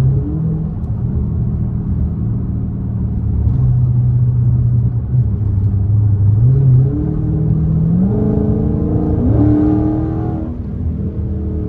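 Straight-piped Dodge Charger Scat Pack's 392 HEMI V8 exhaust, running fairly steady for several seconds. About two-thirds of the way in the engine pulls hard, its pitch climbing, then it eases off near the end.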